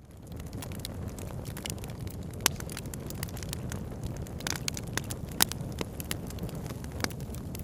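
Campfire crackling, with frequent sharp, irregular pops over a steady low rush.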